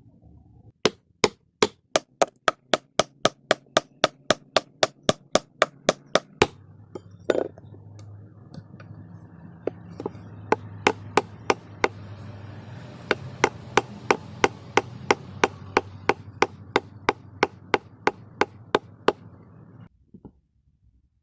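Hammer blows struck in a fast, even rhythm of about three a second, in two runs with a pause of a few seconds between them and one duller knock in the pause.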